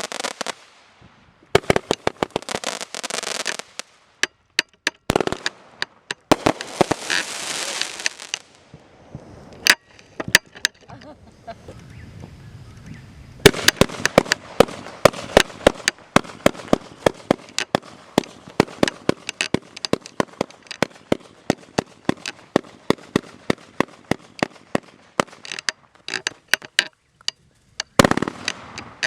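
Consumer fireworks going off: two hissing, crackling bursts within the first eight seconds, then a long run of rapid sharp bangs that stops shortly before the end.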